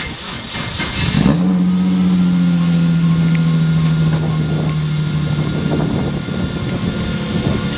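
Hyundai Genesis Coupe race car's engine running on a chassis dynamometer: uneven revving at first, then about a second in it climbs sharply and holds a steady drone whose pitch sags slowly.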